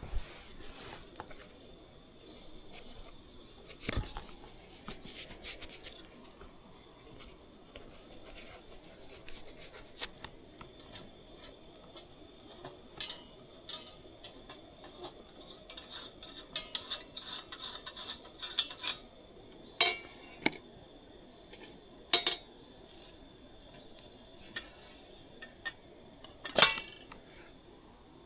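Small hard objects being handled, like camp cookware or utensils: scattered clicks and clinks, a dense run of them in the middle and a few sharper knocks later, over a faint steady high tone.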